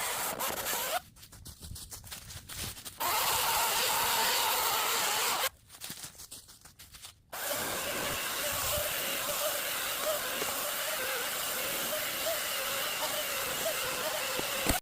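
Power saw cutting through oak wood. The cutting noise stops abruptly twice, for about two seconds each time, and then resumes.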